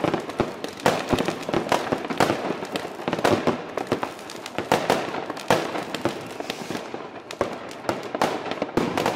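Fireworks and firecrackers going off in a dense, irregular barrage, several sharp bangs a second over constant crackling.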